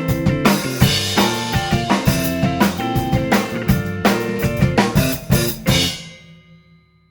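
Drum kit played along with a pop song's recording: kick, snare and cymbal strikes over the backing track. The song ends about six seconds in, with a few final hits, and the sound dies away over the last second.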